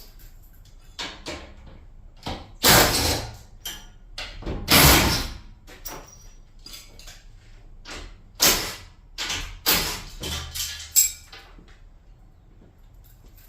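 Irregular knocks and scrapes from garage door parts being handled and taken apart during removal. Two longer, loud scraping noises come about three and five seconds in, then a run of shorter knocks later on.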